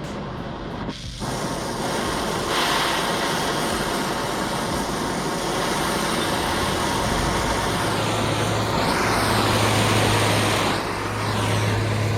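Brazing torch flame burning steadily with an even hiss, from about a second in, while copper refrigerant joints are brazed on a compressor. A steady low hum joins it from about eight seconds in.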